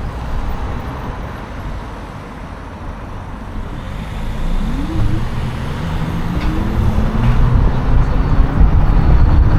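Road traffic: a motor vehicle's engine rising in pitch as it accelerates past, over a constant low rumble, growing louder towards the end.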